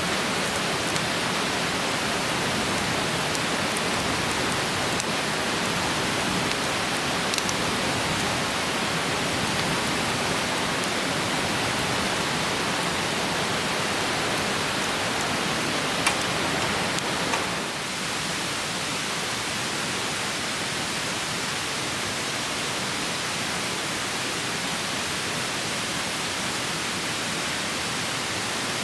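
Steady rushing of a fast, clear mountain stream, with a few faint sharp clicks and a slight drop in level a little past halfway.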